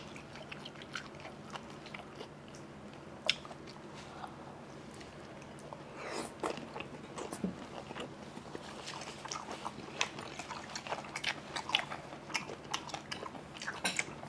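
Close-miked chewing and biting of steamed seafood: small crunches and wet mouth clicks, sparse at first and busier in the second half.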